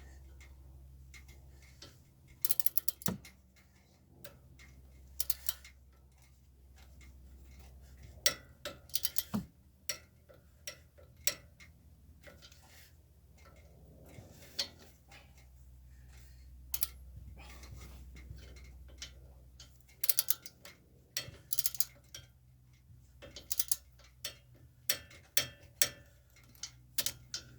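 Hand tools clicking and clinking against metal in scattered bursts, over a low steady hum.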